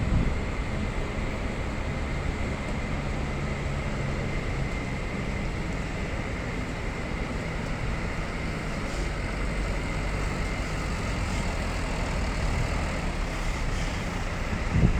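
Steady vehicle noise: a constant rumbling hiss with a low hum beneath it, unchanging throughout.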